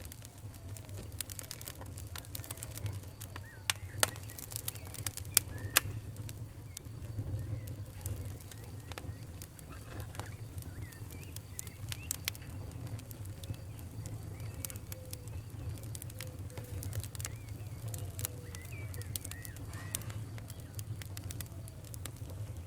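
Wood fire burning in a fireplace: irregular sharp crackles and pops over a low steady rumble, with a few louder pops around four and five seconds in. Faint short squeaky chirps come and go among the crackles.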